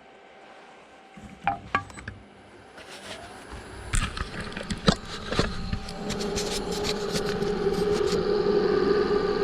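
A few sharp clicks and knocks, then from about six seconds in the wood lathe's motor runs with a steady hum that grows louder over the last few seconds.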